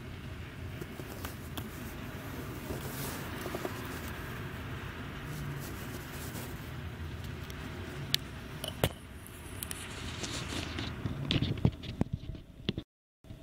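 Freight train rolling past, its tank cars' steel wheels rumbling steadily on the rails, with sharp clicks and knocks in the last few seconds.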